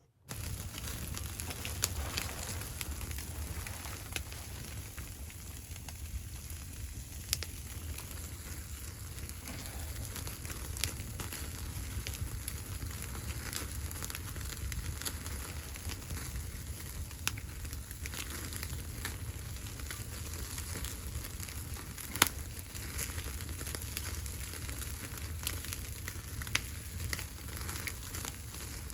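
Wood fire burning with a steady crackle and scattered sharp pops over a low rumble. The loudest pop comes about three-quarters of the way through.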